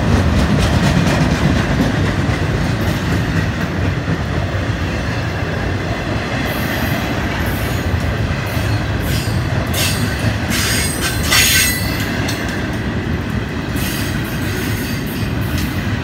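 Freight train cars rolling past: a steady, loud rumble of wheels on the rails, with several short bursts of high-pitched metal wheel squeal in the middle and near the end.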